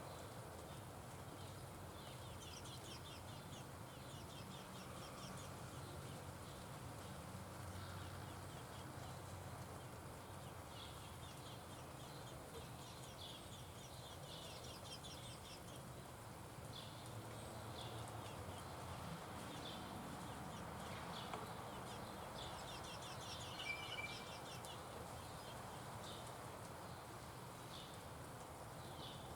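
Small wild birds chirping and trilling at intervals: short runs of rapid high notes come and go throughout, with one brief clear whistled note a little over three quarters of the way through, over a faint steady outdoor background.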